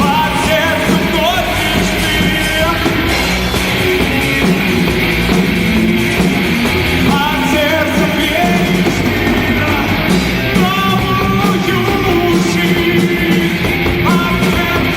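Rock band playing live, loud and dense, with a gliding melody line over the band.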